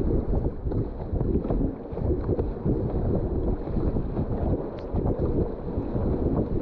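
Whitewater river rushing around a kayak, with irregular low buffeting on the microphone.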